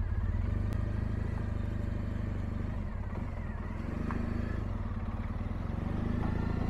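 Triumph T100 sidecar outfit's parallel-twin engine running at low road speed, the note easing off about three seconds in and picking up again after.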